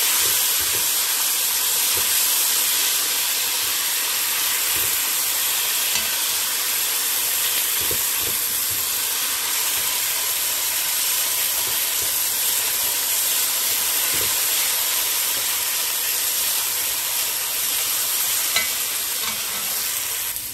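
Curry paste sizzling steadily as it fries in hot oil in a pot, stirred with a spoon that knocks lightly against the pot now and then.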